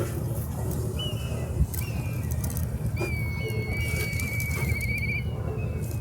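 A series of high, thin whistled calls: two short ones, then a long held one of about two seconds that ends in a warble, over a steady low rumble.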